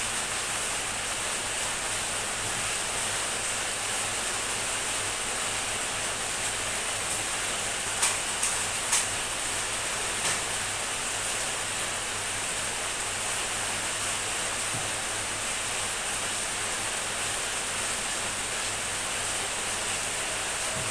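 Heavy rain falling steadily as an even hiss, with three or four louder, sharper drop taps about eight to ten seconds in.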